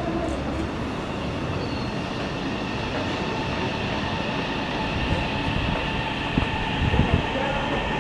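Train on the move: a steady rolling rumble with a faint high whine, and a few low knocks from the wheels near the end.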